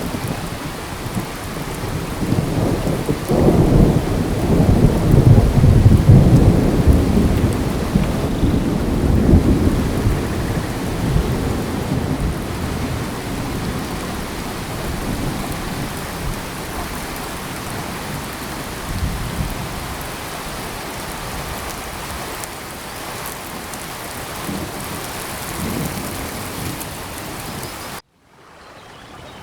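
Steady rain falling in a tropical forest, with a long low rumble of thunder that swells about three seconds in and dies away over several seconds. Near the end the sound cuts out suddenly, then fades back in.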